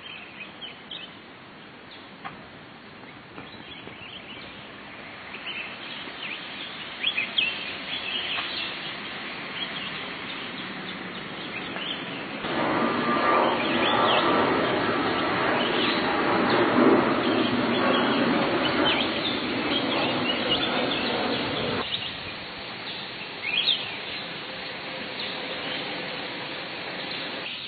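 Small birds chirping, with short high calls scattered throughout. Through the middle, for about ten seconds, a steady rushing noise rises under them and then drops away.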